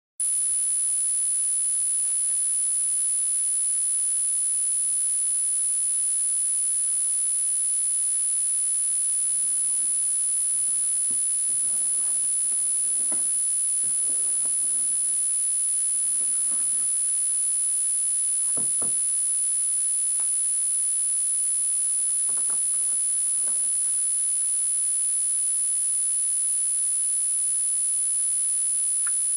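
A steady, very high-pitched whine that holds one unchanging pitch throughout, with a few faint knocks and clicks in the middle.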